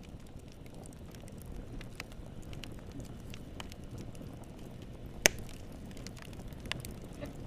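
Wood fire burning in a fireplace: a steady low rumble with scattered small crackles, and one loud sharp pop a little over five seconds in.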